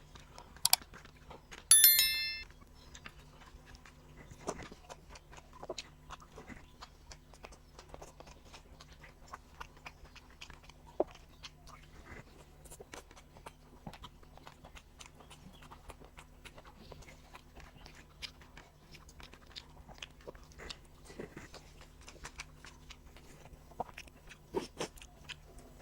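Eating with the hands: chewing, lip smacks and soft clicks of fingers on a plate, irregular throughout. About two seconds in, a metal dish is struck and rings briefly. A faint steady hum runs underneath.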